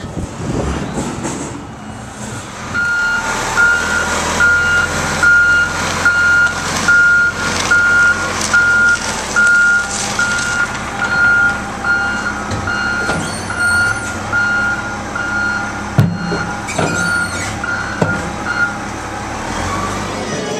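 Reversing alarm of heavy construction equipment, beeping evenly about one and a half times a second over its running engine, stopping a couple of seconds before the end. A few sharp knocks are heard, the loudest about sixteen seconds in.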